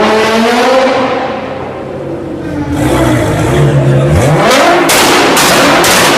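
Nissan GT-R engine revving, its pitch rising and falling, then rising sharply once more before a rapid string of loud exhaust pops starts about four and a half seconds in, about three a second.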